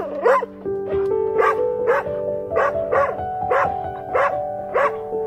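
A dog barking in short, evenly spaced barks, about two a second, over soft piano music.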